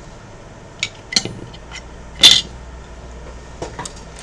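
Scattered light clicks and taps of a screwdriver and the plastic Xbox One S casing being handled while its screws are taken out, with one louder, slightly longer clatter a little past two seconds in.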